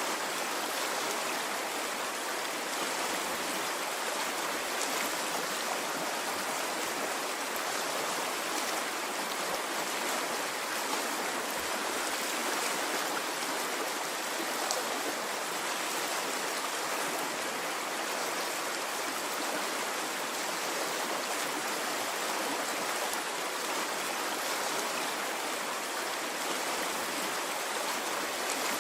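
Water stream flowing steadily, an even, continuous rushing with no rise and fall of waves.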